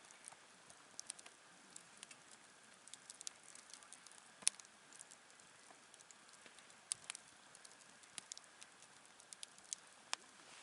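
Wood campfire crackling: irregular sharp pops and snaps over a faint steady hiss, the loudest pop about four and a half seconds in.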